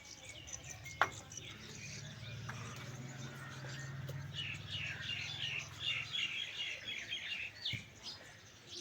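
Small birds chirping in a quick series of short, high notes, over a low steady hum that fades out partway through.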